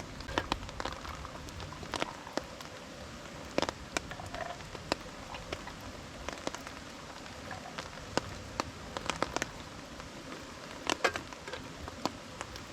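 Rain falling with a steady hiss, with irregular sharp drops striking close by.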